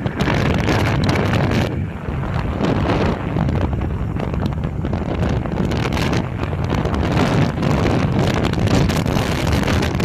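Wind buffeting the microphone: a continuous, uneven rumble with no other clear sound over it.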